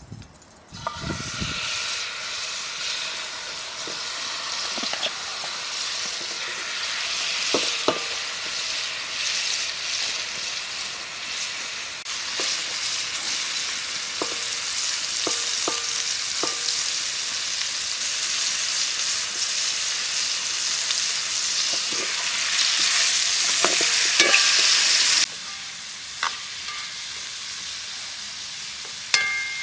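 Food frying in a hot pan, sizzling steadily, with the scattered clicks and scrapes of a utensil stirring it. The sizzle starts about a second in, grows gradually louder, and drops sharply near the end.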